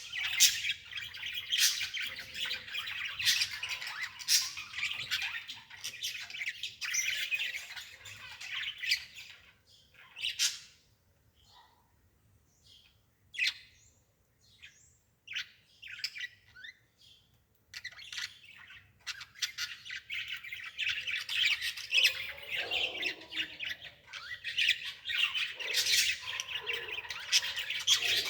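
Birds chirping and squawking in a busy chatter, thinning to a few separate calls and clicks for several seconds in the middle before the chatter picks up again.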